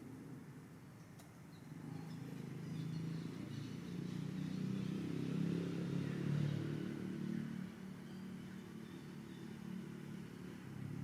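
A motor vehicle passing by, its low engine sound growing louder over a few seconds and then fading.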